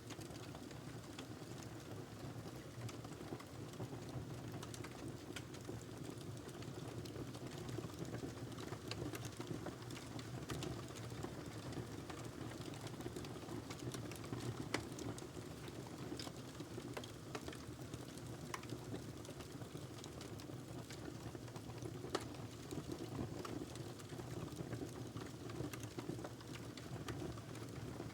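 Wood fire burning in a fireplace: a steady low rumble of flames with scattered sharp crackles and pops, a couple of louder pops about midway and near the end.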